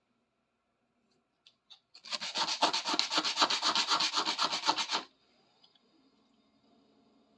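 Rapid back-and-forth hand scrubbing on the steel body of a big adjustable wrench, about seven strokes a second. It starts about two seconds in, after a couple of faint taps, and stops sharply about five seconds in, leaving a faint steady hum.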